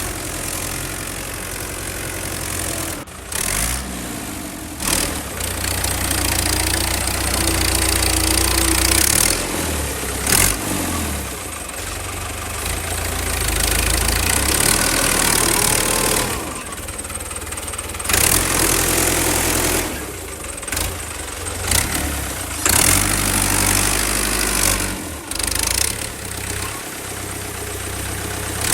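Engine running steadily with a low rumble and a knocking idle, cut off abruptly and resuming several times.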